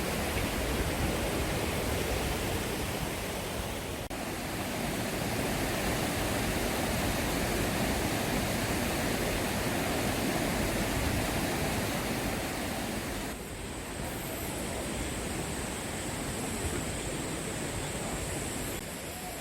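Mountain stream rushing over boulders in a steady, full wash of water. It drops slightly in level about thirteen seconds in, and a faint high steady hiss sits above it from then on.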